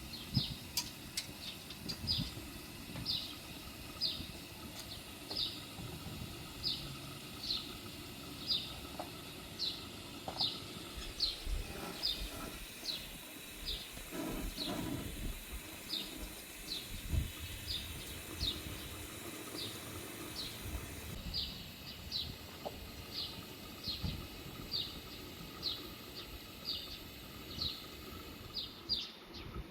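A bird repeating a single short, high chirp that falls slightly in pitch, evenly, a little more than once a second, over a low rumble of wind noise.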